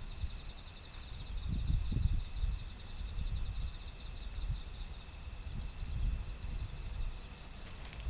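Typhoon wind buffeting the microphone in uneven gusts, with insects trilling steadily in a high, pulsing tone.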